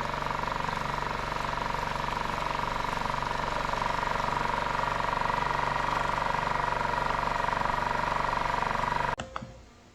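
Dinghy outboard motor running steadily, with a steady whine over the engine noise; it cuts off abruptly shortly before the end.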